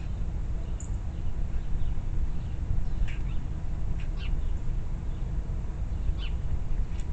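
Wild birds giving short, scattered chirps, a few seconds apart, over a steady low rumble.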